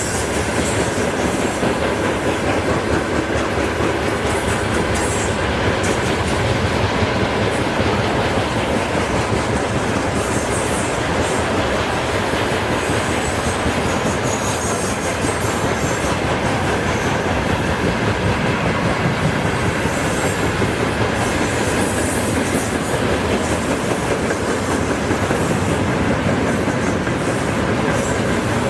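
Train wheels rolling steadily on the rails: a continuous rumble and clatter of rolling stock, with short high squeals at several points.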